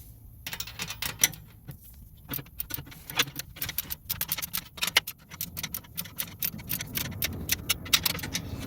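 Hand ratchet wrench clicking in quick, uneven runs of strokes as it tightens the clamp on a newly fitted exhaust pipe section.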